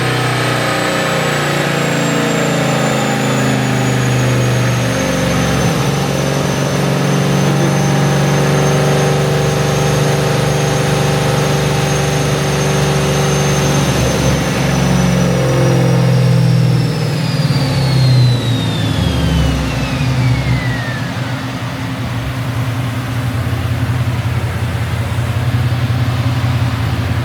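Car engine held at steady high revs with a high-pitched whine. About two thirds of the way through, the whine falls away and the engine drops back to a lower, steady run.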